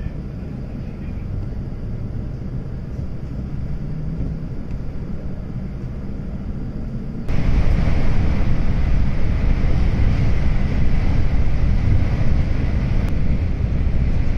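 Train running noise heard from inside the passenger car: a quieter steady rumble as it pulls slowly out of the station, then abruptly louder rumble and rail noise about seven seconds in with the train running at about 90 km/h.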